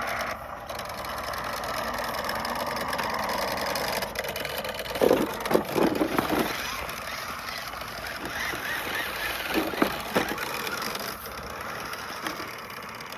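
Battery-powered toy monster truck's small electric motor whirring steadily while the truck sits stuck. About five seconds in comes a burst of clattering knocks, and a shorter one follows near ten seconds.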